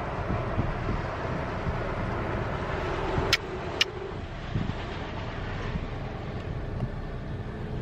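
Automatic car wash running, heard from inside the car: a steady rushing noise with low rumble, and two sharp clicks about half a second apart a little before the middle.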